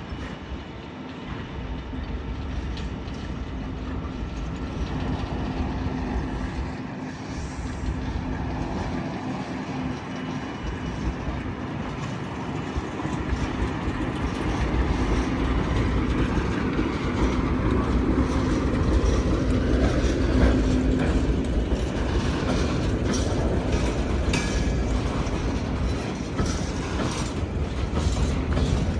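A train running past, with a steady low hum and wheels clacking over rail joints. It grows gradually louder, is loudest about two-thirds of the way through, and the clacks come thicker in the later part.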